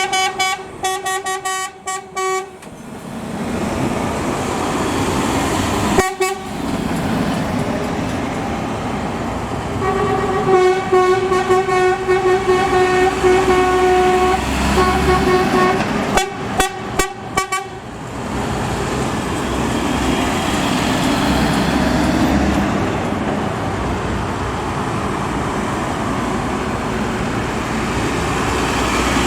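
Trucks passing in convoy with a steady rumble of diesel engines and road noise. A horn sounds a quick run of short toots at the start and holds a long blast from about ten to fifteen seconds in.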